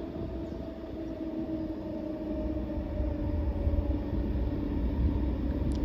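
Diesel locomotives running by: a steady engine drone over a low rumble that grows louder toward the end.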